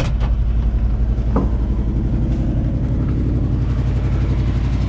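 Ford 360 V8 engine of a 1973 F-250 idling steadily, with a brief click about a second and a half in.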